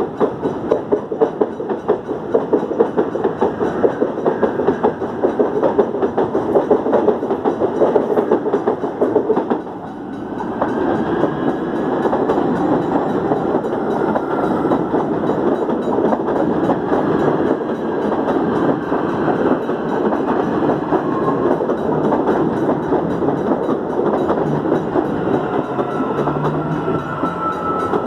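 Electric commuter trains passing through a station, wheels running and clattering over the rail joints; the sound drops briefly about ten seconds in and then continues steadily.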